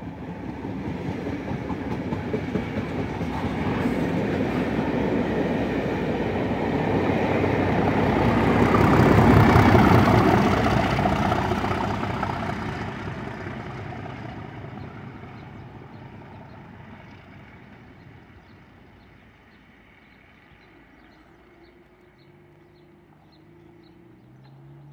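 Network Rail test train passing at speed, propelled by Class 37 diesel locomotive 37607 at the rear, with English Electric engine and wheel-on-rail noise. It builds as the coaches pass, is loudest about ten seconds in as the locomotive goes by, then fades away as the train recedes.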